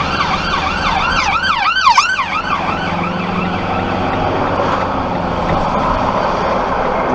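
Emergency-vehicle siren on its fast yelp setting, rising and falling about three to four times a second. It is loudest about two seconds in and stops soon after, leaving steady road and engine noise from the truck.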